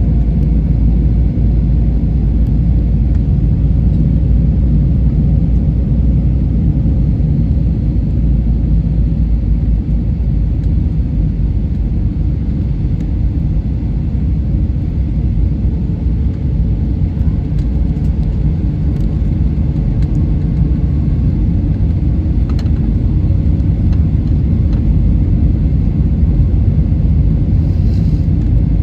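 Steady low rumble of an airliner's engines and rushing air, heard from inside the passenger cabin during the descent to land.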